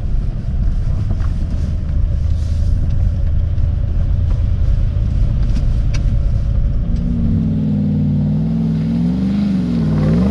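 Four-wheel-drive vehicle engine with a steady low rumble. From about seven seconds in, its revs rise and fall unevenly.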